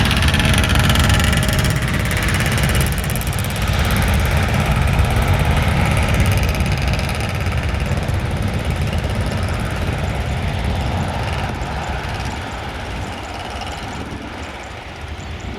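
Airliner engine noise, loud at first and fading away over the last few seconds as the aircraft moves off.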